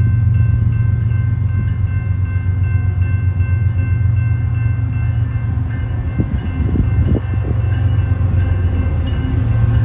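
BNSF freight train approaching behind two diesel-electric locomotives, their engines giving a steady low rumble. A steady high-pitched tone rides over it and fades out about halfway through.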